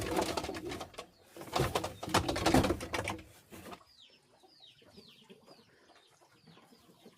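Loud rustling and clattering for about three seconds, then a run of short, high, falling peeps, two or three a second, typical of young chickens.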